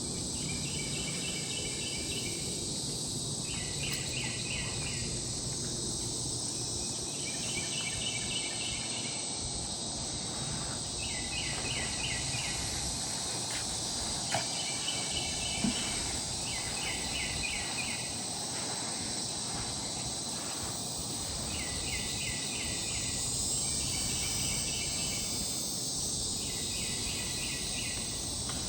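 Swamp insect chorus: a steady high-pitched hiss of insects, with a pulsed trill about a second long that repeats every two seconds or so.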